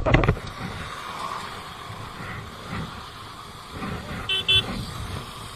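Road traffic noise with a vehicle horn beeping twice in quick succession about four seconds in.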